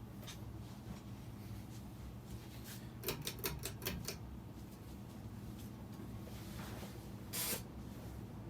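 Hampton Bay Cameron II ceiling fan's motor humming steadily. About three seconds in there is a quick run of about six sharp clicks, and near the end a short noisy burst.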